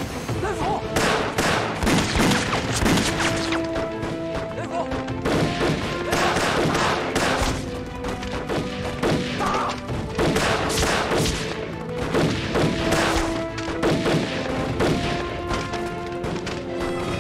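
Battle sound effects: repeated gunfire and heavy impacts in quick succession throughout, over a dramatic orchestral music score with held notes.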